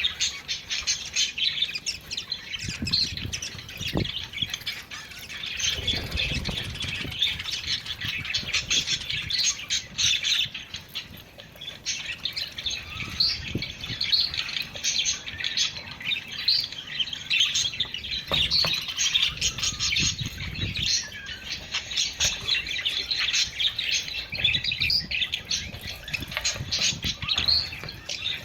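A flock of budgerigars chattering and warbling without pause, a dense stream of quick chirps and calls of the kind played to budgies to stimulate breeding.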